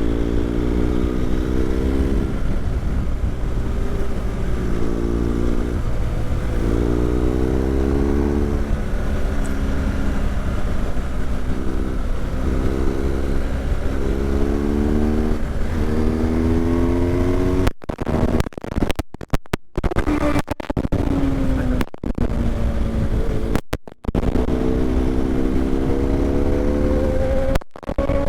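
BMW GS boxer-twin motorcycle engine pulling through the gears, its pitch climbing and dropping at each gear change, then falling as the bike slows. The sound cuts out briefly several times in the second half.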